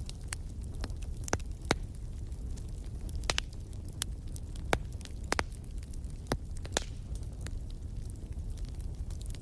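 Wood fire burning in a fireplace: sharp crackles and pops at irregular moments over a steady low rumble of the flames.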